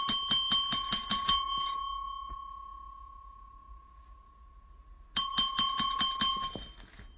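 A small metal bell rung in a quick run of strikes, several a second. The ring dies away slowly over a few seconds, then a second run of rapid strikes begins about five seconds in.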